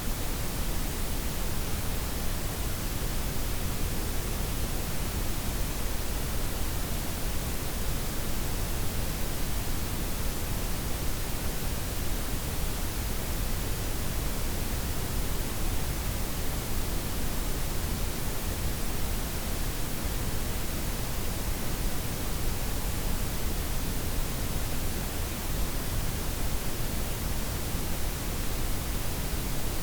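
Steady synthetic blend of white, pink and brown noise, an even hiss with a heavy low rumble underneath, unchanging throughout.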